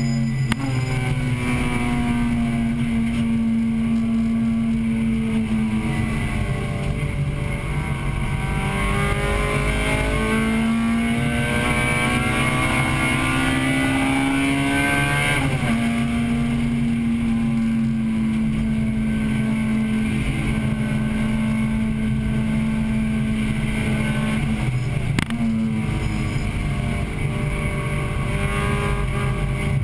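A 1998 Acura Integra Type-R's 1.8-litre VTEC four-cylinder engine running hard on track, heard from inside the car. Its pitch climbs under acceleration, drops sharply about halfway through, and drops again with a click near the end before climbing once more.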